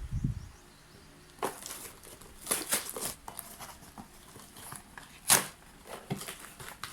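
Packaging being opened by hand: plastic or paper wrapping crinkling and tearing in short scattered bursts, with a sharp snap about five seconds in.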